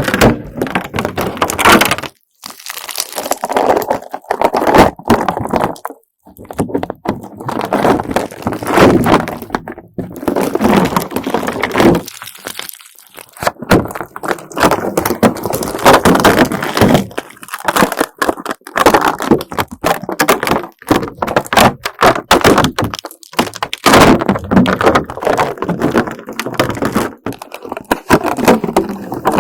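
Dried slime thickly studded with beads being peeled away, giving dense crackling and snapping. It comes in a series of pulls separated by brief pauses.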